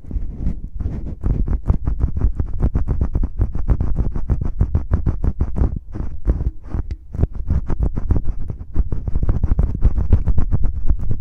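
Fingertips rubbing and scratching in the ear of an ASMR microphone, rapid close scratchy strokes several times a second, heavy in the bass, with brief lulls about six and seven seconds in.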